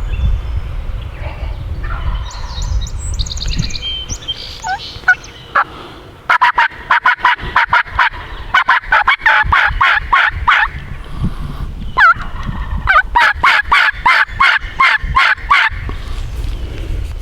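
Turkey calling: two long, loud runs of rapid yelps and cutts, about seven notes a second, starting about six and thirteen seconds in, with a single sweeping note between them. Fainter high bird twittering comes a few seconds in.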